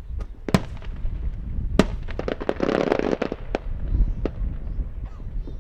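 Aerial fireworks going off: several sharp bangs of bursting shells, with a dense run of crackling reports about halfway through, over a low rumble.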